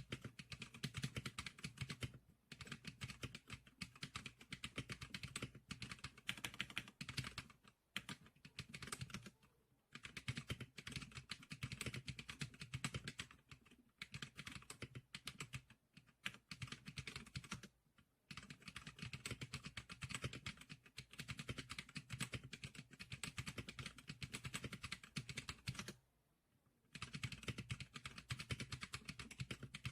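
Fast typing on a Zclicker SPK100 keyboard: keys clacking in continuous runs broken by brief pauses, the longest about a second long near the end.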